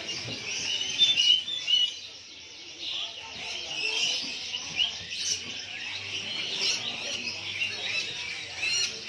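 Many caged songbirds chirping and singing at once, a dense chorus of overlapping short chirps and trills.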